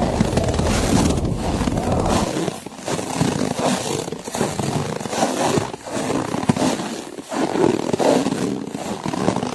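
Snowy-forest ambience: a blizzard's wind mixed with crunching snow, a rough, rising-and-falling noise with brief dips about every second. A low rumble drops away about two seconds in.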